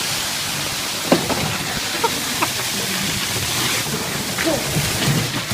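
Water gushing steadily out through a storm drain as the test plug is released, draining the water that was held back for the plumbing test. The rush is loud and even, with a few faint knocks.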